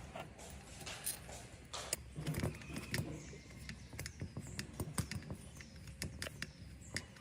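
Irregular light clicks and taps, some coming in quick clusters, over a faint low background rumble.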